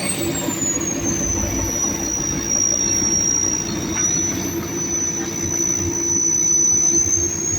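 Heavy earthmoving machine running with a steady high-pitched whine over a low engine hum; the whine drops in pitch right at the start, then holds level and rises slightly near the end.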